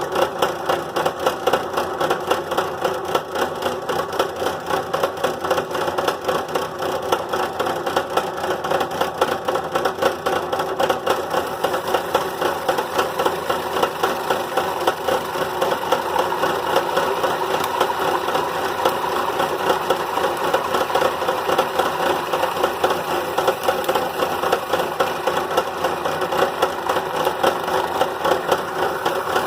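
Benchtop drill press running steadily while a 1-inch Forstner bit cuts slowly into plastic, the motor's hum overlaid with a fast, even rattle.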